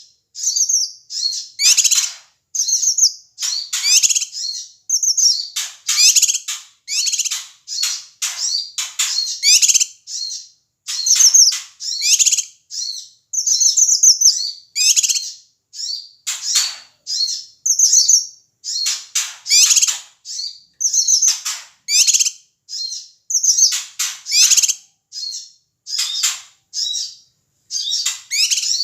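Cucak kinoi calling noisily and agitatedly, in rapid short bursts one after another with brief pauses between them.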